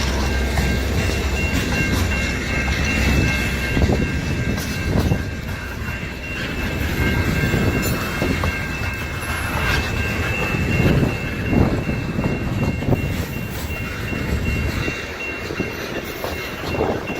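Union Pacific freight train rolling past, its cars' wheels clacking irregularly over the rail joints above a steady rumble. The deep low rumble eases off about four seconds in. A thin, steady high whine runs underneath most of the time.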